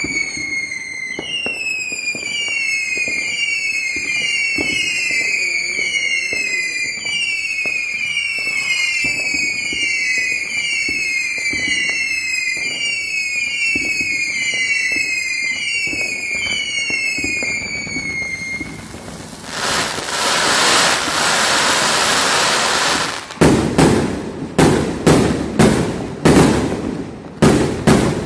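Fireworks: a falling whistle repeating about once a second, then a few seconds of loud hissing, then a rapid string of sharp bangs near the end.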